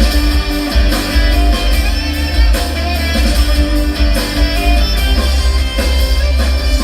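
Guitar-led song with strong deep bass, played through a car's aftermarket sound system with a subwoofer.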